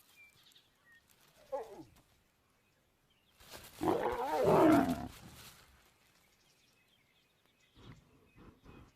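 Lion snarling: a short call falling in pitch about a second and a half in, then a louder, rough snarl of about two seconds near the middle.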